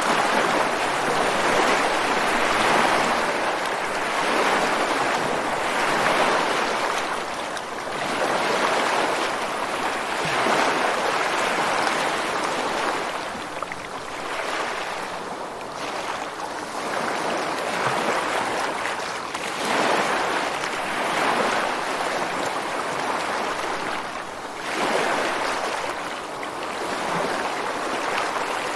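Ocean surf washing onto a rocky beach: a continuous rush of breaking water that swells and eases every few seconds as successive waves come in.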